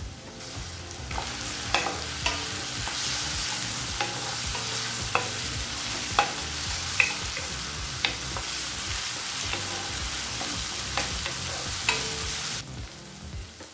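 Sliced onions, curry leaves and ginger-garlic paste sizzling in hot oil in a steel kadai, stirred with a wooden spatula that clicks and scrapes against the pan now and then. The sizzling stops abruptly near the end.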